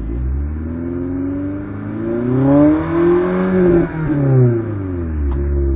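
Peugeot 406 Coupe exhaust as the engine is revved gently from idle: the pitch climbs slowly for about three seconds, then falls back to idle near the end.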